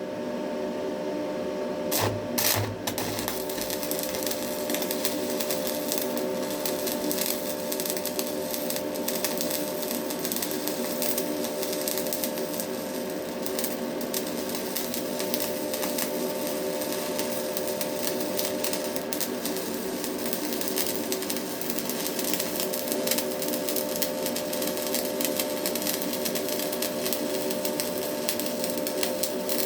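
Stick (MMA) welding arc with a Hilco electrode. The arc is struck with a couple of sharp crackles about two seconds in, then burns with a steady, even crackle as the rod runs along the joint, over a constant hum.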